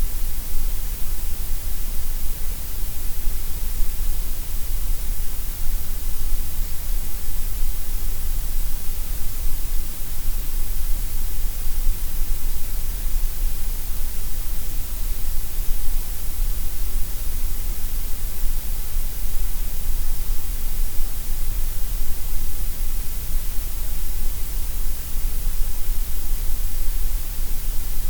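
Gray noise: a steady, unchanging hiss with extra weight in the deep bass and the highest treble and less in the middle.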